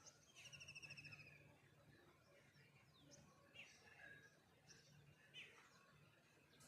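Faint birdsong from several birds: a rapid trill of quick repeated notes about half a second in, lasting nearly a second, then scattered short chirps and down-slurred whistles.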